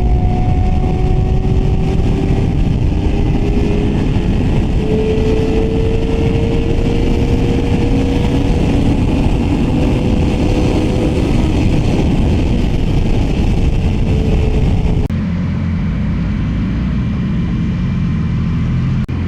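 Yamaha R6 sport bike ridden at speed: heavy wind rush on the rider's microphone with a steady engine tone that climbs slowly. About fifteen seconds in the sound changes abruptly to a quieter, lower engine drone.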